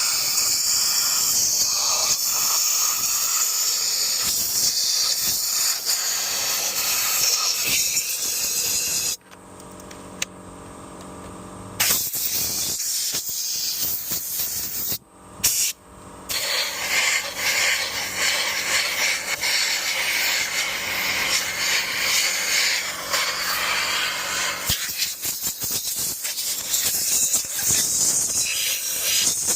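Compressed-air blow gun hissing as air is pushed through a Dyson stick vacuum's cyclone assembly to blow out dust. The air is stopped for about three seconds about nine seconds in, leaving a faint steady hum, then cut off twice in quick succession a few seconds later before the hiss resumes.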